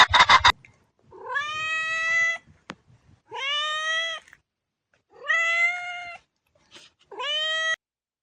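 A domestic cat meowing four times: long, drawn-out meows that rise at the start and then hold their pitch. A fast clicking rattle, left over from the previous clip, cuts off about half a second in.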